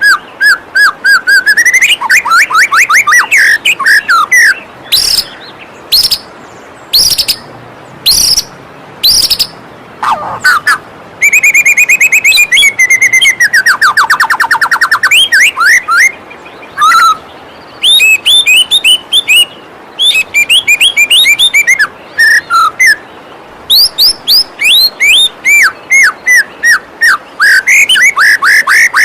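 White-rumped shama (murai batu) singing a loud, varied song of rapid runs of repeated chipping notes, trills and clear whistles, phrase after phrase with short gaps. A steady rush of waterfall water runs beneath.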